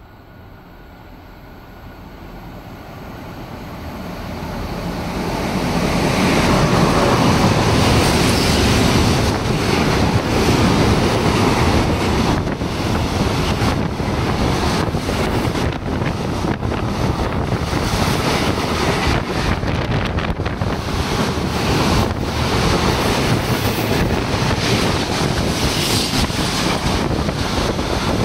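A DB Cargo freight train of tank wagons and an ICE 3M high-speed train passing at speed through an underground railway station. The noise builds over about six seconds to a loud, steady rush of wheels and air, full of quick irregular clicks, with the slipstream buffeting the microphone.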